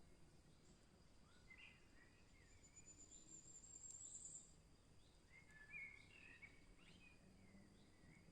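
Faint forest birdsong: short chirped and warbled phrases from small songbirds, with a thin, very high trill that swells for about two seconds midway.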